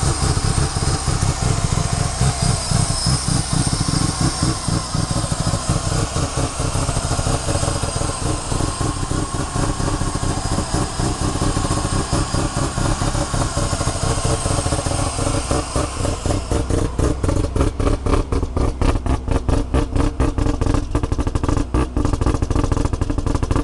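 Mazda RX-7's freshly built, full bridge-ported rotary engine idling with a rapid, choppy pulsing exhaust, the lumpy idle typical of a bridge port. About two-thirds of the way in, the pulses become more sharply separated.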